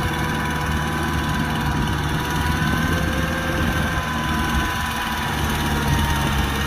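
Kubota tractor engine running steadily, with a thin whine above the engine note that drifts slowly in pitch.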